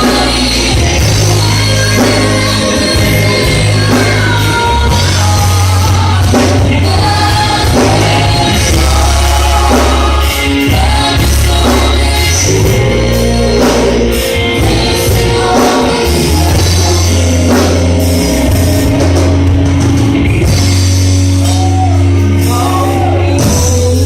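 Choir singing a worship song with full band accompaniment, steady bass and drums under the voices.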